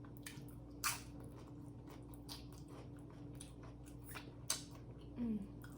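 A person chewing food with wet mouth clicks and smacks, two louder ones about a second in and about four and a half seconds in. A brief falling hum near the end.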